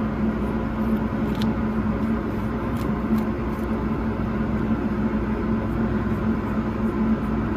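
Vacuum cleaner running steadily with a constant motor hum, pulling air through a piece of fabric in a suction test.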